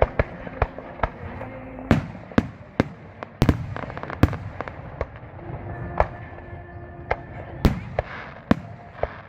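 Fireworks going off: more than a dozen sharp bangs and pops at irregular intervals, some close together and some far apart. The loudest come about two, three and a half, four and eight seconds in.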